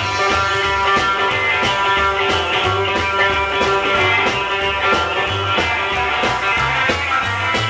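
Live rock-and-roll band playing an instrumental break with no vocals: electric guitar over a moving bass line and a steady drum beat.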